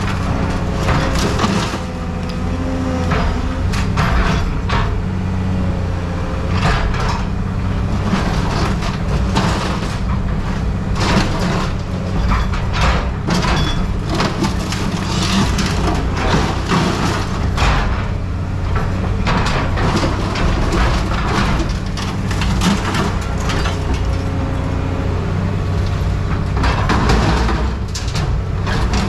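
A heavy machine's engine runs steadily with a low drone while scrap metal is handled, with repeated sharp clanks, cracks and crunches of metal on metal.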